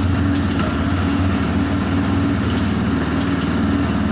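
TVS Raider 125's single-cylinder engine running steadily at low revs.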